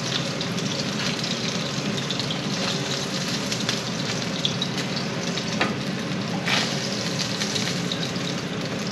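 Pieces of sheepshead fish frying in a skillet: a steady crackling sizzle. A couple of sharper clicks a little past the middle come from metal tongs lifting the pieces out of the pan onto a plate.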